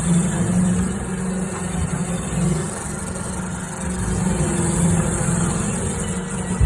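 Roomba robot vacuum running inside sheet-metal ductwork: a steady motor and brush hum that swells and fades slightly.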